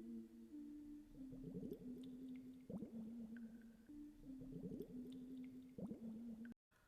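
A faint, slow melody of low held notes that step from one pitch to another, with a few short rising swoops laid over it.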